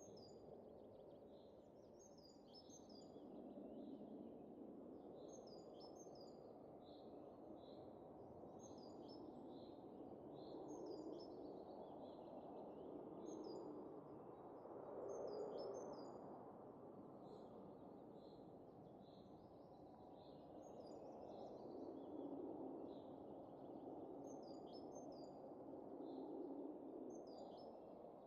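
Soft wind that swells and eases in slow gusts, with small birds chirping in short high clusters every second or two.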